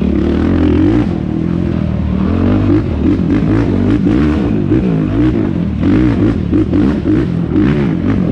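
Yamaha YFZ450R quad's single-cylinder four-stroke engine revving hard, its pitch rising and falling rapidly over and over with the throttle, under scattered knocks and clatter from the quad over rough ground.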